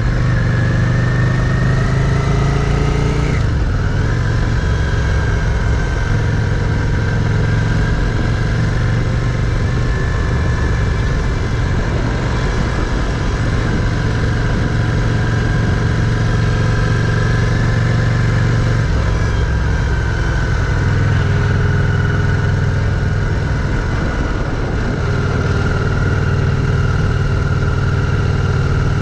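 Yamaha Virago V-twin motorcycle engine running on the road, heard from the bike with wind rushing over the microphone. The revs climb for about three seconds, drop sharply at a gear change, then the engine holds a steady cruising note.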